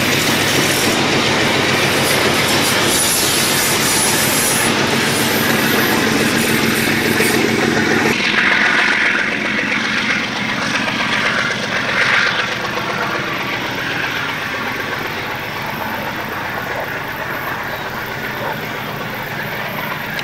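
Passenger train's carriages rolling past close by. About eight seconds in, the rumble drops away as the last carriage clears, and the train's sound then fades steadily as it draws away.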